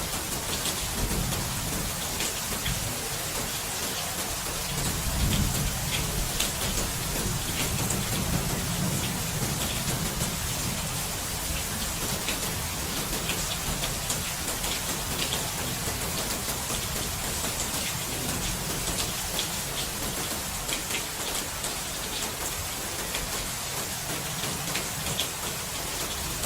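Steady rain with scattered drops ticking on a surface, over a low rumble that swells and fades now and then.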